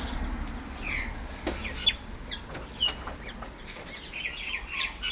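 Several birds giving short, scattered chirps and squawks, with a few sharp clicks among them.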